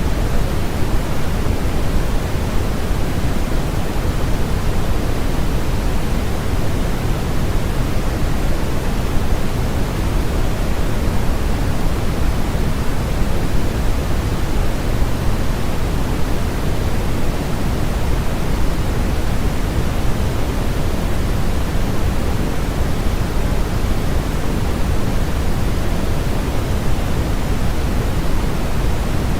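Steady, unchanging white noise of a sleep-sound track: an even hiss with more weight in the low end than the high.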